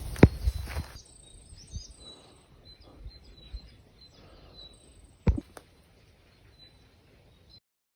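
Birds chirping in short, high calls, with a sharp knock near the start and two more knocks about five seconds in.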